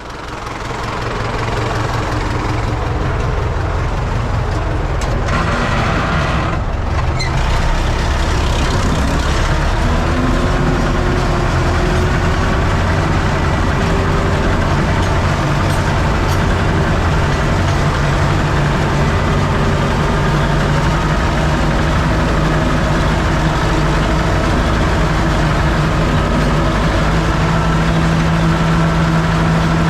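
Universal U650 tractor's diesel engine running steadily as it pulls a cultivator through a maize field. It builds up over the first couple of seconds, then holds a steady drone.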